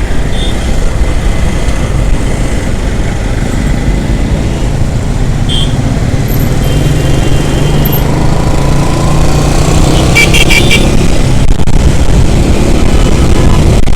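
Motorcycle engine running while riding, with wind rushing over the microphone. About ten seconds in, a vehicle horn toots in a quick run of short blasts.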